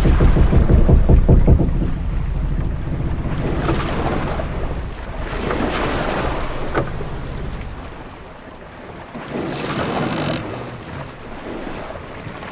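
Ship-at-sea ambience: wind and waves washing against a ship's hull in swells that rise and fall every few seconds, with a heavy low rumble in the first two seconds.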